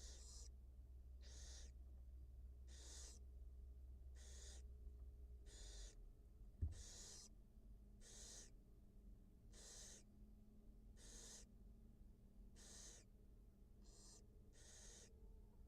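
Barn owl giving faint, breathy hissing calls, one short hiss about every one and a half seconds, the snoring hiss that barn owls make at the nest. A single dull thump about six and a half seconds in.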